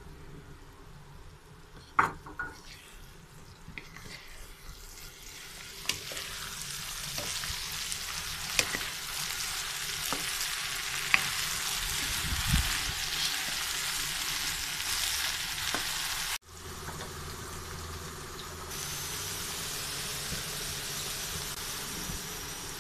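Okra, onion and tomato sizzling in a hot pan while a wooden spatula stirs them, with a few sharp knocks of the spatula against the pan. The sizzle grows louder about six seconds in, cuts off abruptly past the middle, then carries on steadily.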